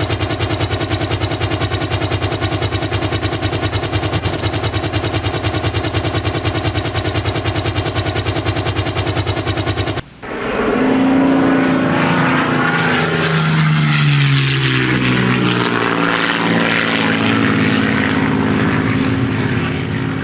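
Xiro Xplorer quadcopter drone's motors and propellers buzzing steadily with a rapid pulsing beat. About halfway through the sound cuts abruptly to a new take, in which the rotors' several pitches slide up and down as the motor speeds change, then fade near the end.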